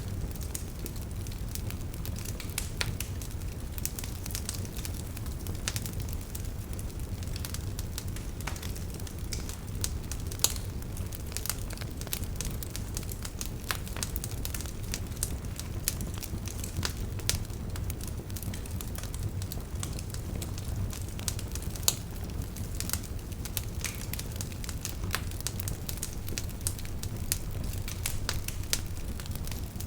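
Campfire burning: a steady low rumble of flames with frequent irregular crackles and occasional louder pops from the burning wood.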